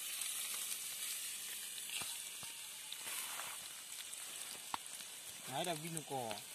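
Freshly cooked crabs sizzling as they are tipped out of a hot wok, a steady hiss with a few small clicks. A short wordless voice is heard near the end.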